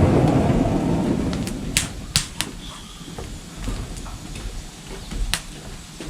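Wood campfire with sharp crackling pops scattered through, after a low rumbling whoosh that swells in the first second and fades away.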